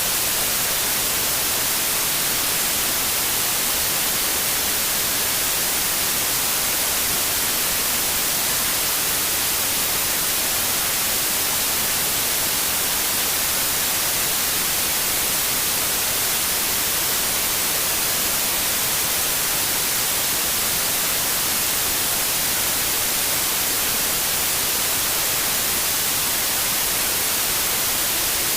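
Steady, unchanging white noise: an even hiss, brightest in the high frequencies, with no events or changes.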